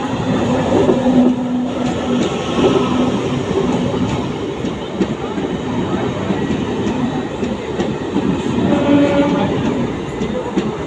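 Indian Railways train running past at the platform: a steady loud rumble with the wheels clicking over the rail joints.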